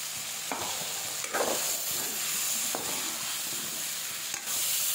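Raw banana and potato pieces frying in hot oil in a kadhai with freshly added onion, garlic and tomato paste, a steady sizzle. A metal ladle scrapes and knocks against the pan a few times as the mixture is stirred.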